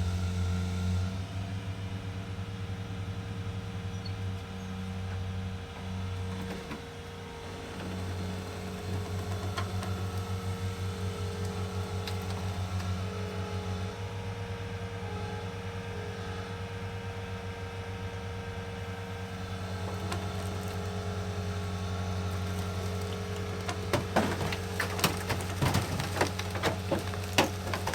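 A vehicle engine running steadily at a low, even pitch. In the last few seconds there are sharp snaps and cracks, like wood and brush breaking.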